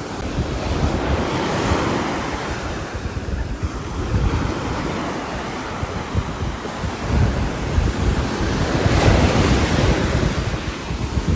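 Steady rushing noise of rain and wind with a low patter and rumble, swelling about a second and a half in and again near nine seconds.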